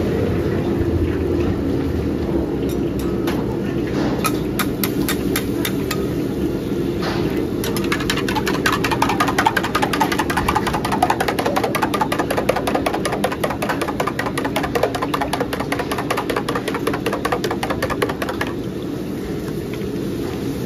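Food frying in hot oil: a dense, rapid crackling sizzle over a steady low hum. It builds from scattered pops to a thick crackle about a third of the way in, then dies down a couple of seconds before the end.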